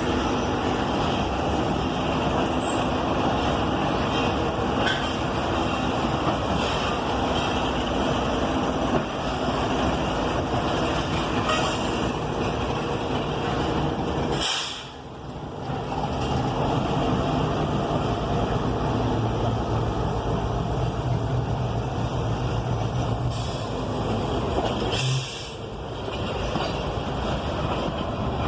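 Passenger train running along the track, a steady mechanical running noise. A low steady hum comes in for several seconds in the second half, and the sound briefly drops away about halfway and again near the end.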